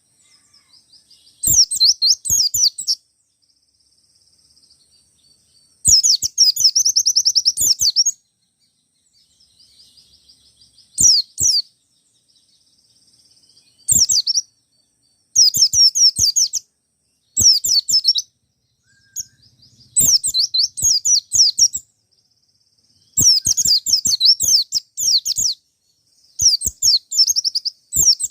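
A wild-caught white-eye (pleci) singing loud, rapid phrases of high twittering notes, each one to two seconds long with short pauses between, one phrase ending in a fast trill; softer twittering fills the gaps.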